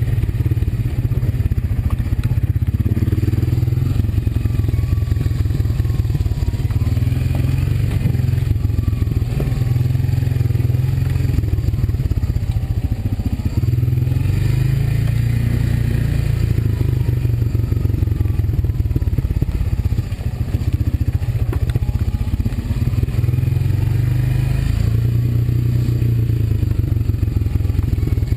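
ATV (quad) engine running steadily while riding, its pitch rising and falling as the throttle is worked.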